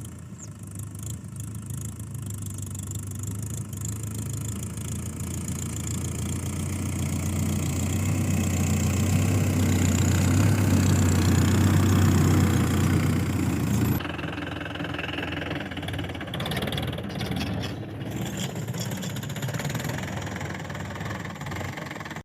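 Tractor diesel engine running steadily, growing louder over the first half, with an abrupt cut about fourteen seconds in to a quieter run of engine sound.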